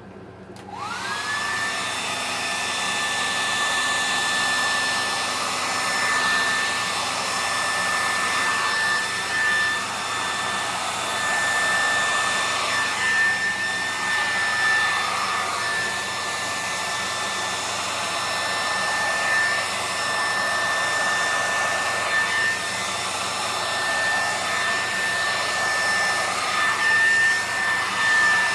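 Hair dryer switched on just under a second in, its motor whine gliding up to a steady high pitch, then running loudly with a steady rush of air as it blows wet acrylic paint across a canvas, the level swelling and dipping slightly as it is moved.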